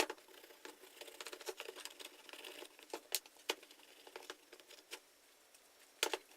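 Soft brush scrubbing softened paint off a plastic power-tool housing: irregular light scratching and ticking, with a few sharper clicks.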